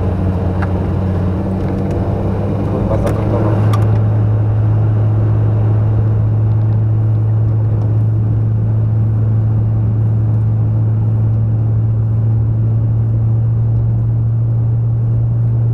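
Rally car engine heard from inside the cabin, running at steady revs while driving; its note steps up slightly about four seconds in and then holds level. A few clicks and rattles come in the first few seconds.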